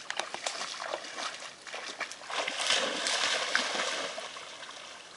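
Water splashing: a few small splashes, then a bigger rush of splashing about two seconds in that fades away over the next two seconds.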